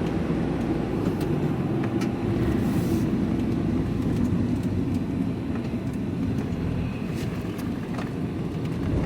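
Steady engine and road rumble heard from inside a moving vehicle's cab, with a few faint clicks.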